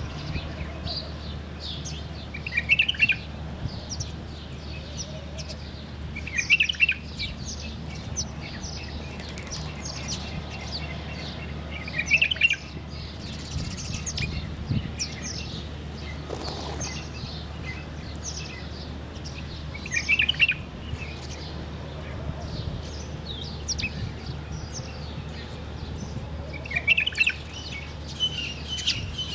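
Several wild birds chirping and singing. One call comes loudly five times, a few seconds apart, over fainter high chirps from other birds, with a low steady hum underneath.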